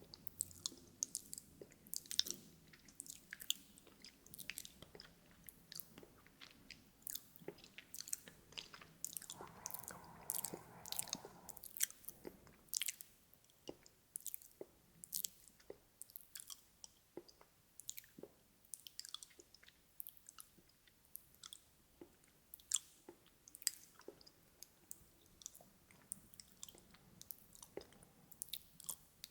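Close-miked ASMR mouth sounds: wet tongue and lip clicks and smacks, irregular, several a second, with a short hushed noise about ten seconds in.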